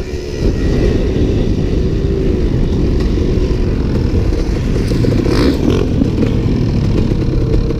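Motocross dirt bike engine running under load while riding on the track, with a heavy, steady rumble throughout and a brief clattery burst about five seconds in.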